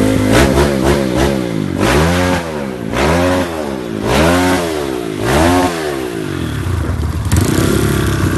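Kawasaki KLX150's single-cylinder four-stroke engine breathing through a GP7 CNC aftermarket racing exhaust, revved in about five quick throttle blips, each rising and falling back, then settling to a steady idle near the end.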